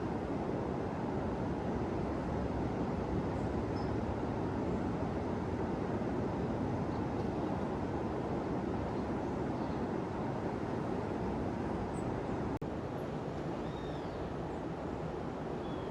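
Steady roar of ocean surf breaking on a beach, with a few faint bird chirps above it. The sound briefly cuts out about two-thirds of the way through.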